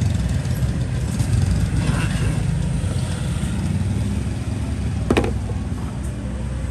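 Steady low rumble of road traffic, with one sharp click that rings briefly about five seconds in.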